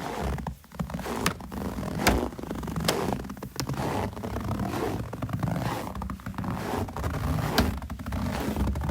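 Footsteps crunching and scraping through snow, one step after another, with a few sharp clicks along the way.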